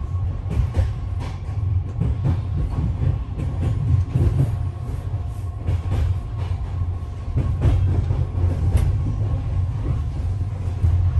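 Passenger train running, heard from inside the carriage: a steady low rumble with irregular clicks and knocks from the wheels and rails.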